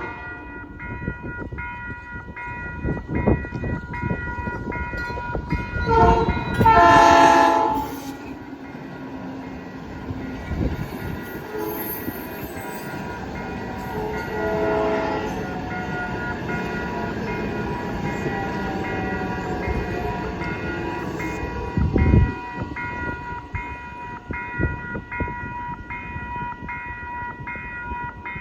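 Grade-crossing warning bells ringing, pulsing about once a second, as a South Shore Line electric commuter train comes through. The train's horn sounds loudly for about two seconds some six seconds in, a fainter horn follows around fifteen seconds, and there is a heavy thump a little after twenty-two seconds.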